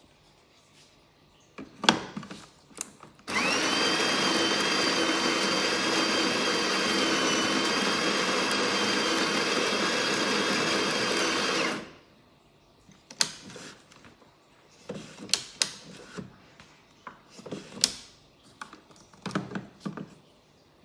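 Espresso machine's built-in coffee grinder grinding beans: a steady motor run with a whine that climbs as it spins up, lasting about eight seconds and stopping abruptly. Clicks and knocks of handling the machine come before it and after it.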